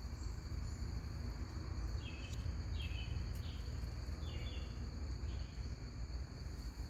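Steady high-pitched insect chorus, with a handful of short chirping calls about two to four seconds in, over a constant low rumble.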